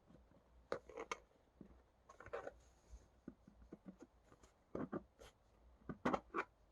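Photo cards and their packaging being handled: short quiet rustles and light taps of card and paper, in clusters about a second in, around two and a half seconds, and near the end.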